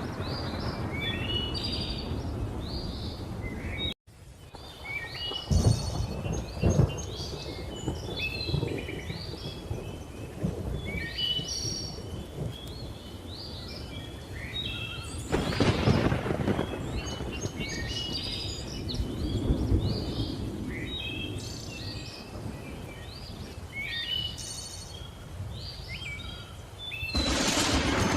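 Many birds chirping and calling over the low rumble of thunder. Thunder rolls swell about six seconds in, again around the middle, and near the end. There is a momentary dropout in the sound about four seconds in.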